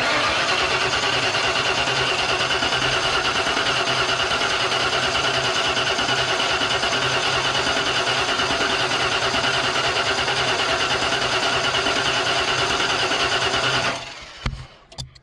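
Starter motor cranking the Ford 302 V8 steadily for about 14 seconds without it catching, then stopping abruptly. The no-start is on an engine whose spark checks out, which the owner takes for a fuel problem.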